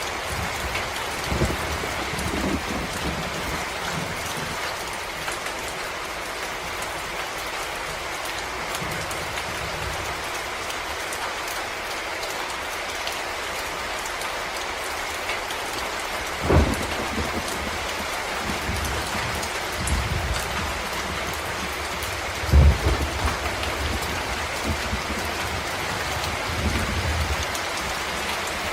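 Steady rain falling on forest leaves and ground, an even patter throughout. A few short low thuds stand out, the loudest two in the second half.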